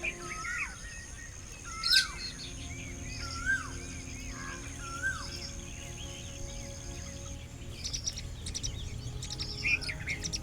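Birds calling: repeated short whistled notes that swoop down and up, then a quick burst of high twittering near the end. A thin steady high whine runs under them until about seven seconds in.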